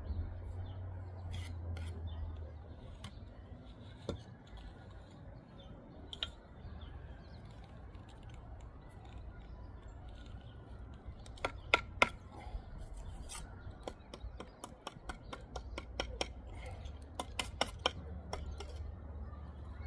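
Bricklaying work with a trowel: sharp taps and scrapes of steel on brick and mortar, scattered at first, then in quick runs about halfway through and near the end, over a steady low rumble.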